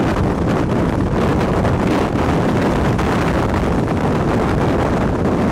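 Strong wind blowing on the microphone: a loud, steady rush of noise, heaviest at the low end.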